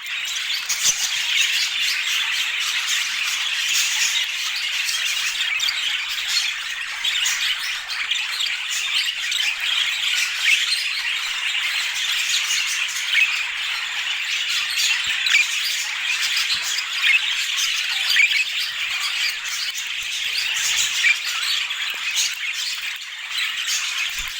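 Budgerigars chattering and warbling without a break, a dense stream of quick squawks, chirps and trills.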